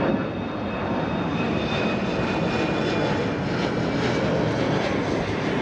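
Airbus A321 jet airliner's engines running at close range: a loud, steady rush with thin high whining tones over it, cutting off suddenly at the end.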